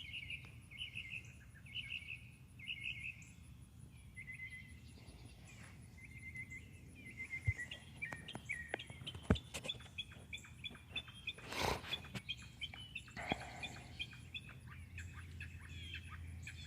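A songbird singing from a high perch in quick repeated phrases, about two a second for the first few seconds, then many shorter chirps and trills. A brief rush of noise comes about twelve seconds in.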